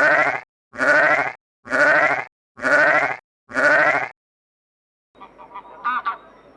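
Sheep bleating five times in an even row, each bleat about half a second long. After a short silence, fainter animal calls begin about five seconds in.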